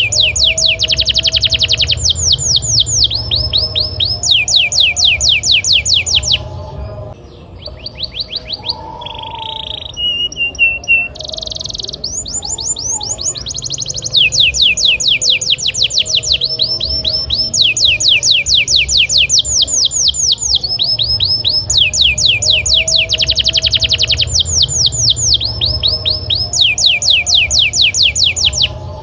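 Domestic canary singing long rolling trills of rapid, evenly repeated falling notes, in phrases of several seconds with short breaks between them. A brief steady whistled note comes about eleven seconds in, and a low hum runs underneath.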